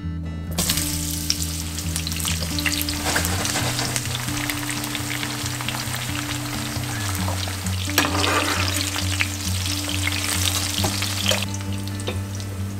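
Zucchini slices sizzling and crackling as they fry in vegetable oil in a pan, with scattered pops. The sizzle starts about half a second in and cuts off suddenly near the end.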